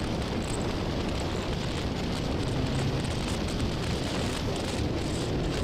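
Steady wind rush on the microphone over a motorcycle running at road speed.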